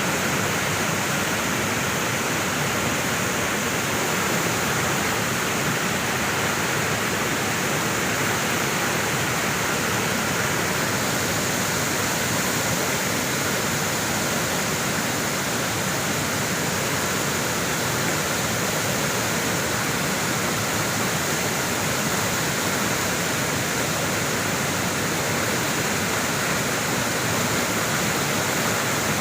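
Waterfall of mountain water pouring, a steady, unbroken rush.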